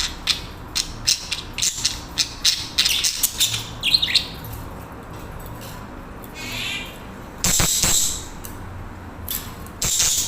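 Pet budgerigars chattering: rapid scratchy clicks and short chirps, with a brief falling whistle about four seconds in and a short warbled call a little later.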